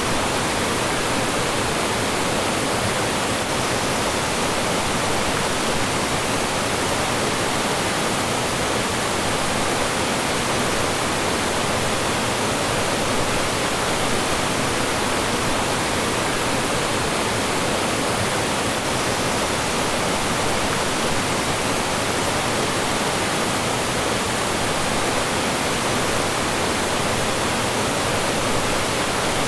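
Mountain stream running over rocks and small falls: a steady, even rush of water with no change.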